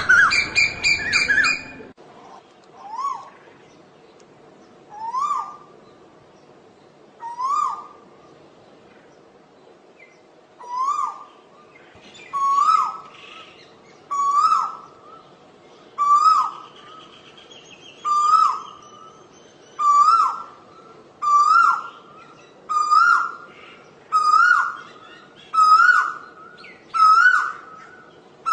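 Asian koel calling: a loud cluster of calls in the first two seconds, then a long series of rising whistled notes that come faster and climb slightly higher as the series goes on.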